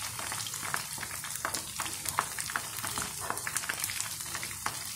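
Chả giò (Vietnamese spring rolls) deep-frying in a pan of hot oil: a steady sizzle full of small crackling pops. The rolls are golden and nearly done.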